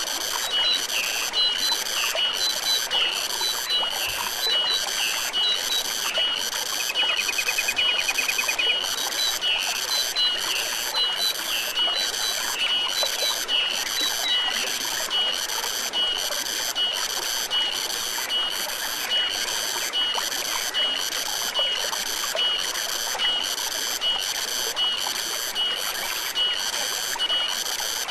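Stream water flowing steadily under a high-pitched animal call that pulses evenly, about one and a half times a second. In the first half, short chirping calls come in between, with a quick trill about eight seconds in.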